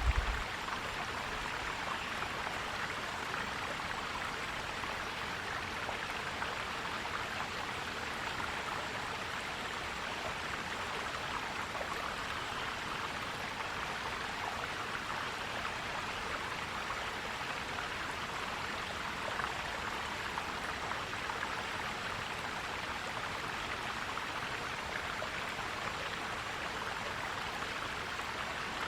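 Stream water flowing and gurgling over rocks, a steady even rush, with a brief low thump right at the start.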